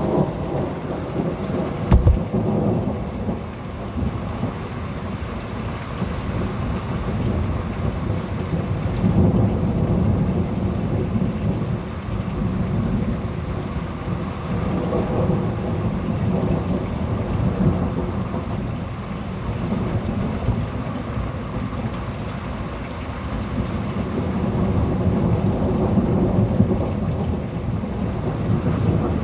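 Thunderstorm: steady rain with thunder rumbling and swelling on and off, and a sudden loud crack about two seconds in.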